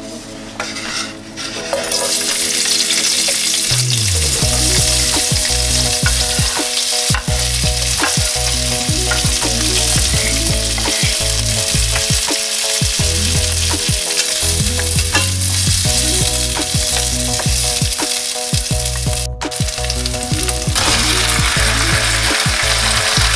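Sliced onion, then chicken pieces, frying in hot oil in a stainless steel pot: a loud, steady sizzle that starts about two seconds in. Background music plays underneath.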